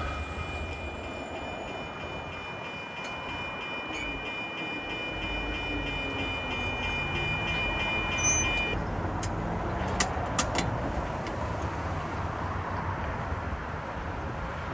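Railroad grade-crossing warning bell ringing in a steady repeated rhythm and cutting off about nine seconds in, over the low rumble of a commuter train. A few sharp clicks follow soon after it stops.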